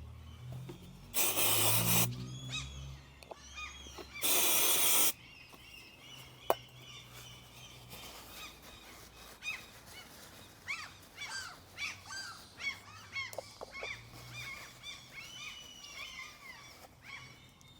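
Two short hissing blasts of an aerosol can of brake cleaner sprayed onto a tractor's fuel-filter parts, about three seconds apart, followed by birds chirping repeatedly.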